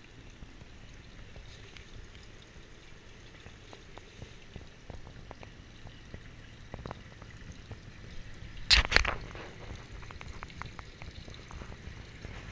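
Twin Yamaha 225 four-stroke outboards idling quietly as a faint steady hum, with water pouring and splashing. A quick cluster of sharp knocks about nine seconds in.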